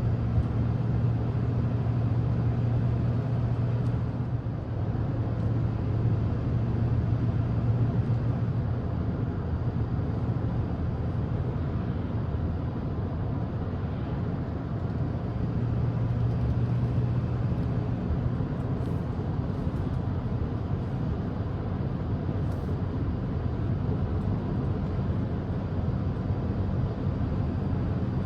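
Steady road noise inside a moving car's cabin: a low drone from the engine and tyres that swells and eases a little.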